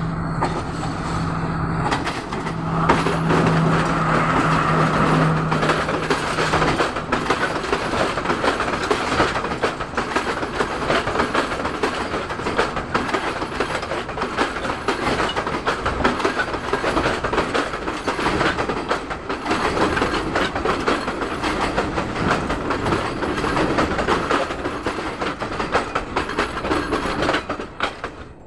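Passenger train passing close by. A steady low hum from the locomotive's engine runs through the first six seconds or so. Then the coaches roll past with their wheels clattering on the rails, and the noise drops off suddenly near the end as the last coach goes by.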